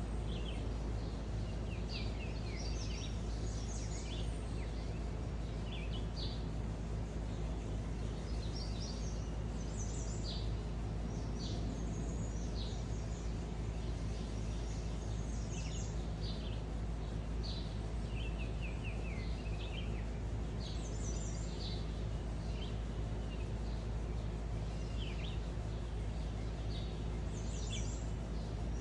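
Several songbirds chirping and singing in short calls and trills, overlapping throughout, over a steady low hum.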